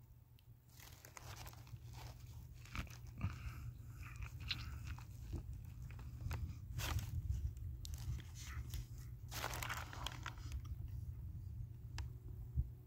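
Close-up eating sounds: crunchy bites and chewing through a Subway cheesy garlic steak sub, irregular and heaviest in the middle, over a steady low hum.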